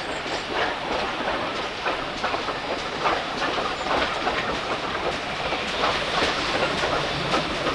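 Heritage railway train running along the line, with a steady regular clatter of about two beats a second.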